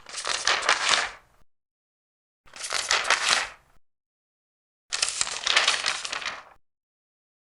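Large paper pages being turned, three times, each turn a crisp rustle lasting a second or so with dead silence between.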